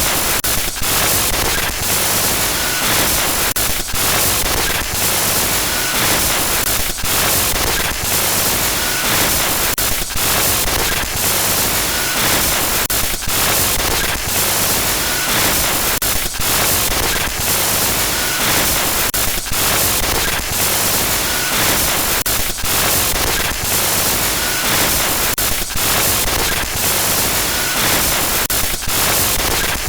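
Loud, continuous glitchy static noise, a harsh hiss across all pitches that stutters and drops out briefly many times, with faint short beeps recurring every second or two.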